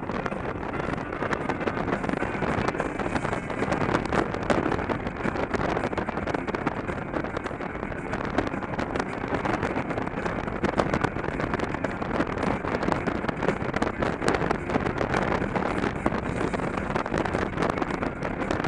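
Wind buffeting an action camera's microphone on a moving motorcycle, with the Victory motorcycle's V-twin engine running steadily underneath.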